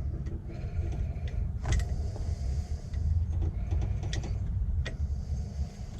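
Scattered light metallic clicks and taps as an engine accessory bracket and its bolts are handled and fitted by hand, over a steady low rumble.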